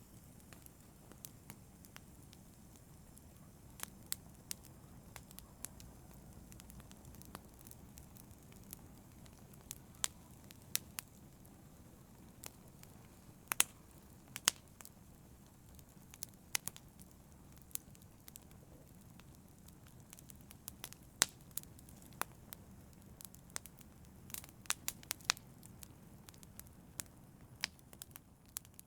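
Wood fire in a fireplace crackling: irregular sharp pops and snaps, a few each second, over a steady low rumble of burning, starting to fade out at the very end.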